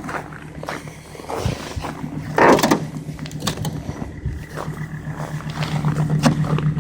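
Alfa Romeo 156 2.4 JTD five-cylinder diesel running steadily in deep frost after a cold start, a low even hum that grows a little stronger near the end. About two and a half seconds in, a short rushing noise stands out above it.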